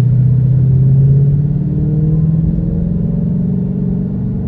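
Whipple Stage 2 supercharged 5.0 V8 of a 2018 Mustang GT, with factory mufflers and an X-pipe, heard from inside the cabin while driving. The engine note climbs in pitch as the car pulls for a second or two, then holds steady at a light cruise.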